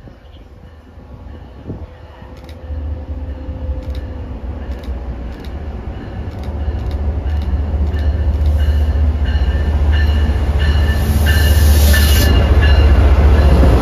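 MBTA commuter rail train led by a diesel locomotive approaching and pulling alongside the platform: a low rumble that grows steadily louder, with a string of clicks from the wheels passing over rail joints early on and thin high squealing tones as the locomotive comes level.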